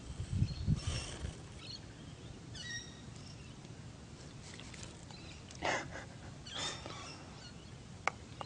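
Faint outdoor birdsong: a few short, scattered chirps and calls. There are low bumps on the microphone in the first second and two short rustles a little over five and six seconds in.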